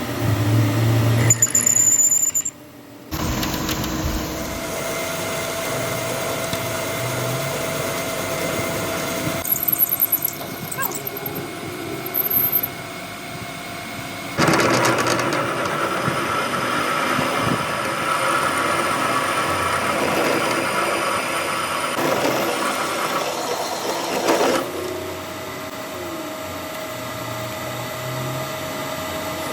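Workshop power tools running on metal: a steady motor hum with a whine, changing abruptly several times, with a louder, rougher stretch in the middle.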